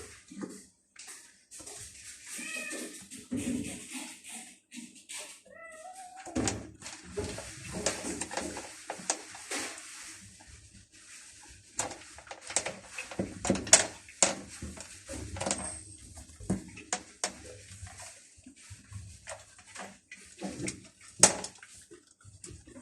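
Hungry stray cats meowing, with two calls in the first six seconds, the second rising in pitch, followed by a run of sharp clicks and rustling.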